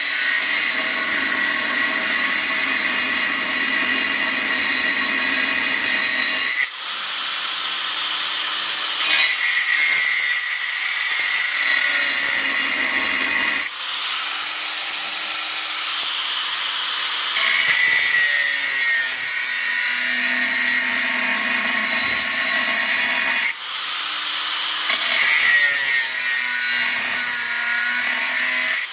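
Power tool cutting or grinding steel plate, running in long continuous stretches with a steady high whine, stopping briefly three times.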